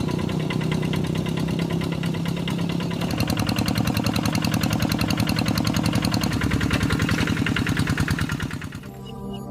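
Kubota RD85DI-2S single-cylinder diesel on a Quick G3000 hand tractor, running with a fast, even beat that fades down near the end.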